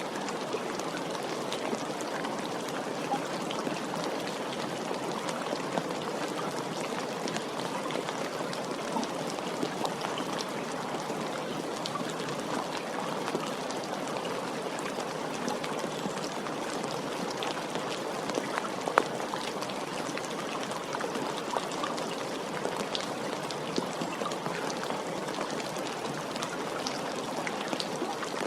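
Steady rain with individual drops pattering and tapping on a surface, one sharper drop hit about two-thirds of the way through.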